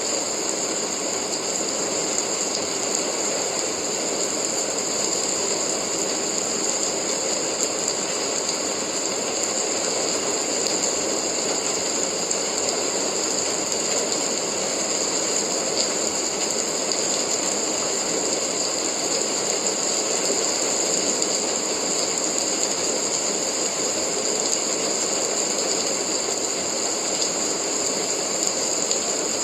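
Steady rain: an even hiss with faint, scattered ticks of drops.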